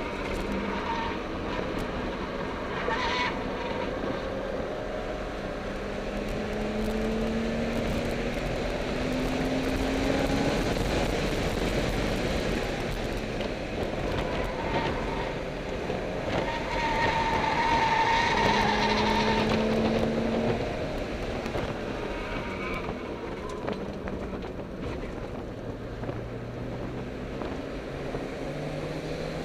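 Car engine heard from inside the cabin, pulling through the gears: its note climbs slowly several times, dropping back between climbs, over steady road and wind noise.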